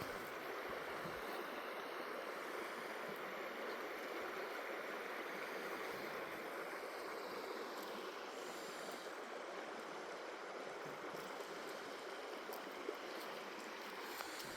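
A stream's water flowing, a steady even rush with no change in level.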